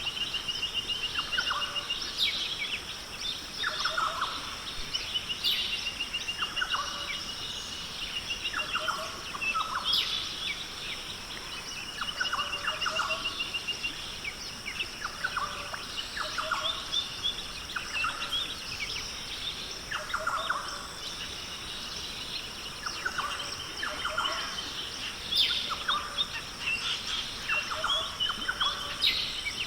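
Several forest birds calling over and over, short calls every second or two mixed with rapid trills, over a steady high-pitched buzz.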